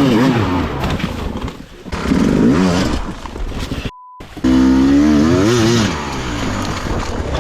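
Dirt bike engine revving up and down in uneven bursts. About four seconds in it cuts out for a moment under a short steady beep, then comes back louder.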